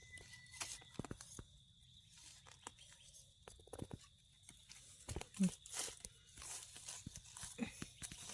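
Irregular crunching and crackling of dry forest litter, leaves and twigs being trodden or pushed aside, with a couple of brief low vocal sounds.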